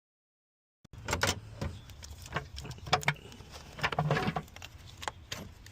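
Dead silence for about the first second, then irregular metallic clicks, knocks and light clattering of hand tools and loose engine parts being worked loose and handled in an engine bay.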